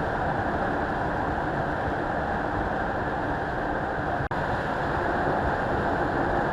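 A car driving, heard as a steady road and engine rush with no clear engine note, broken by a brief dropout about four seconds in.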